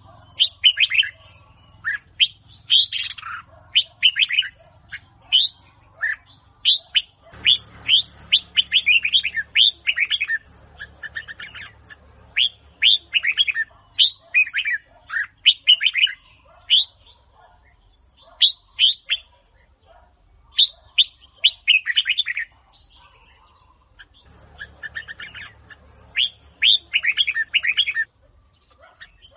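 Red-whiskered bulbul (chào mào) singing Huế-style song: quick phrases of short, clear whistled notes that sweep downward, broken by short pauses.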